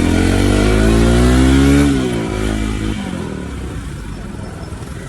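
Motor scooter engine with an aftermarket exhaust revving, its pitch rising for about two seconds, then dropping as the sound fades.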